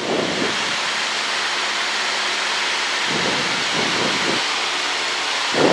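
Steady cockpit noise of a Cessna 152 in flight: the four-cylinder Lycoming engine running evenly under the rush of air over the airframe.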